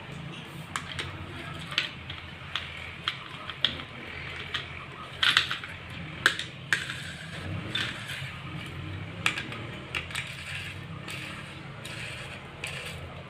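Metal engine parts and hand tools clinking and tapping during hand assembly of a motorcycle engine: irregular sharp clinks and knocks, loudest about five to six and a half seconds in, over a steady low hum.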